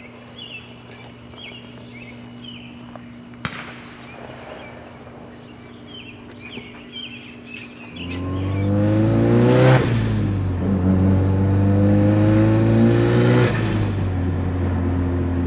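Mazdaspeed 3's turbocharged 2.3-litre four-cylinder idling steadily. About eight seconds in it is revved up twice, and each rev ends in a burst of hiss from the HKS blow-off valve, fins removed, venting boost.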